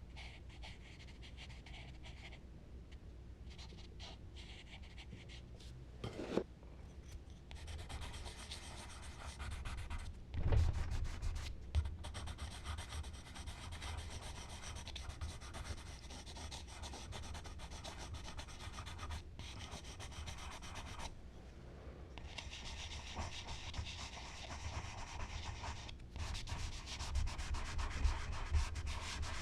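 Charcoal rubbing on smooth Bristol paper in continuous strokes, growing louder about seven seconds in, with a couple of short knocks around six and ten seconds in.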